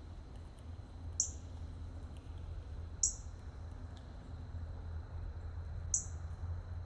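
A small bird giving a short, very high-pitched chirp three times, roughly every two to three seconds, over a steady low background hum.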